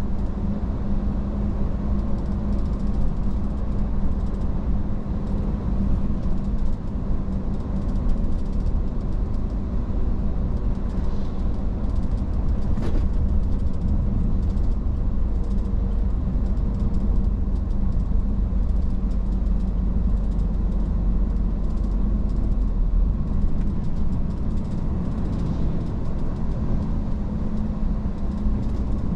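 Iveco S-Way truck driving along: steady engine hum and road rumble, with one brief click about 13 seconds in.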